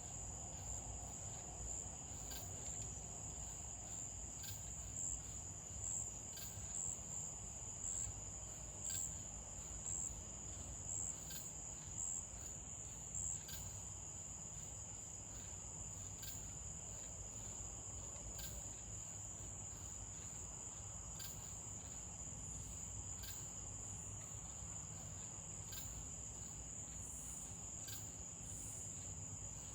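Crickets trilling steadily at night in a continuous high-pitched chorus. From about five seconds in, a nearer insect adds a run of about nine louder chirps, roughly one a second, before they stop.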